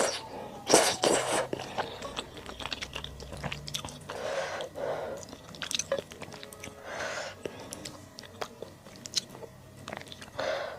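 Close-miked eating of malatang: wet chewing and crunchy bites with many sharp mouth clicks, the loudest bite about a second in.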